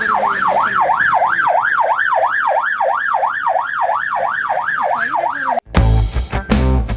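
Emergency vehicle siren in a fast yelp, sweeping up and down about three times a second. It cuts off suddenly near the end and loud music with drums takes over.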